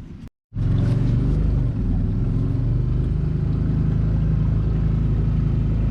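Boat motor running steadily at an even pitch, cutting in abruptly about half a second in after a moment of silence.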